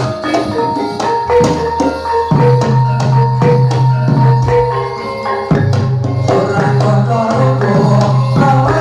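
Live jathilan accompaniment music: drum and percussion strokes over sustained pitched notes and a deep held low note.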